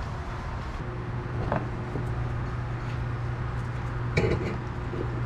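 Steady low hum in the background, with a light clink about a second and a half in and a sharper metallic knock about four seconds in, as small hardware is handled.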